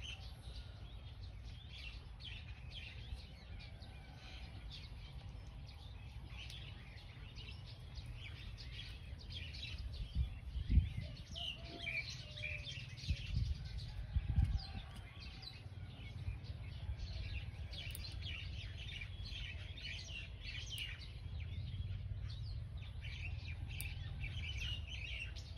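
Small birds chirping busily in the background over a steady low rumble, with a few dull thumps around the middle that are the loudest sounds.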